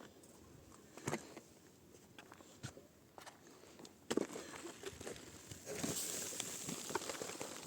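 Footsteps and scattered light knocks, louder at about one second and four seconds in, with a rustling hiss for a couple of seconds after the middle.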